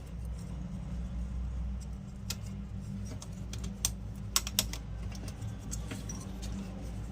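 Scattered sharp clicks and taps of small metal parts as a nut and bolt are tightened to clamp an amplifier IC to its heat sink, over a steady low hum.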